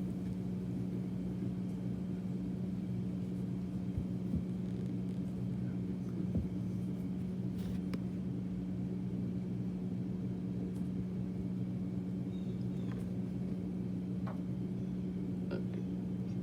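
Water heater running: a steady low hum, with a few faint clicks over it.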